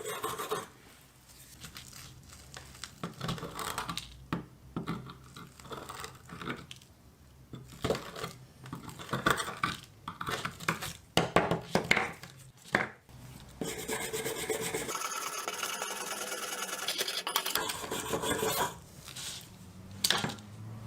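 Rubbing and scraping of hand work on rusted old pliers: irregular strokes and small knocks, then a few seconds of steadier rubbing in the second half.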